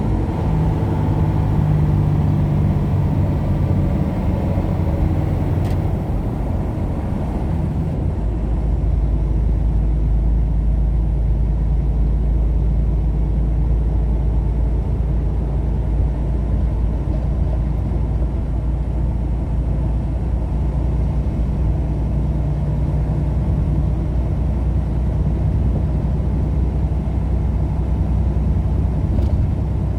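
Engine and road noise inside a moving vehicle's cab at highway speed, a steady drone. About eight seconds in, a deeper low rumble sets in and holds.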